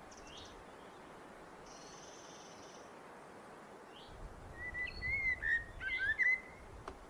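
Blackbird singing: faint high twitters, then about halfway through one louder fluting, warbling phrase that slides up and down.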